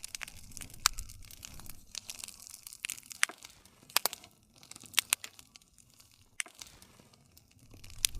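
Wood fire crackling: irregular sharp pops and snaps over a soft low rumble of the flames.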